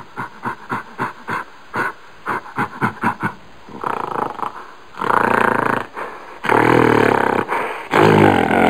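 Gorilla vocalising: a run of short hoots that quicken over the first three seconds, then louder, longer roaring calls from about four seconds in, three of them loudest near the end.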